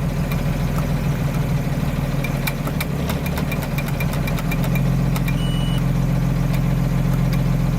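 Diesel engine of a 2000 Blue Bird school bus idling, just cold-started and set on high idle, heard from the driver's seat. Its note grows a little louder about halfway through, and a short high beep sounds near the end.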